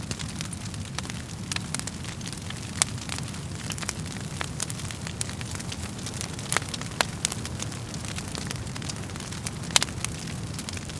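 Wood fire burning in a fireplace: a steady low rumble of flames with irregular crackles and sharp pops from the burning logs, two of them louder than the rest, about three seconds in and near the end.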